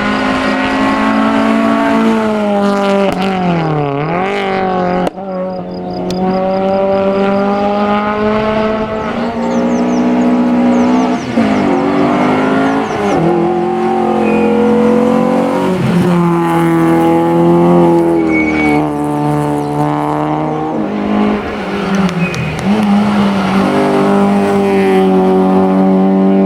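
Hillclimb rally cars at full throttle, first a Renault Clio 16V and then a Peugeot 306 GTI, their four-cylinder engines revving hard. The pitch climbs and then drops sharply several times as the drivers change gear.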